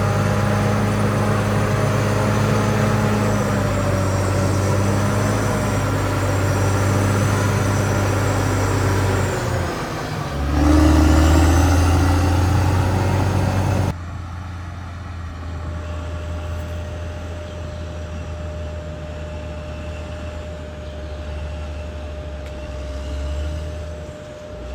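CAT D6R XL bulldozer's diesel engine running with a steady hum. About ten seconds in, the pitch dips and returns deeper and louder. A few seconds later the sound drops suddenly to a quieter, steady engine hum.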